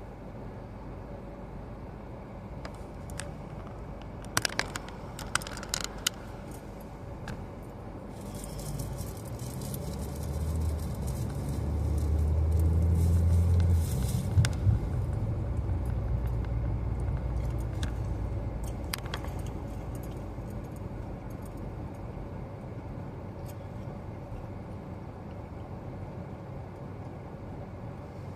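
Car driving, heard from inside the cabin: steady road and engine noise with the air conditioning blowing. A few sharp clicks and rattles come about four to six seconds in, and a deeper rumble with a hiss swells up in the middle, peaks, then fades away.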